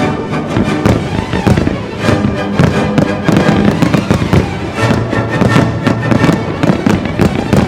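Fireworks display: a dense run of shell bursts and crackling bangs, one after another, over music with held tones.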